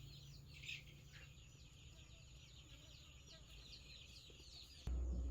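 Faint bird song: a rapid run of short, falling chirps, about three to four a second. Near the end a low rumble starts suddenly.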